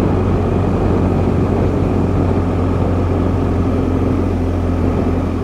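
BMW GS boxer-twin motorcycle running at a steady cruise, a constant low drone with no change in engine speed.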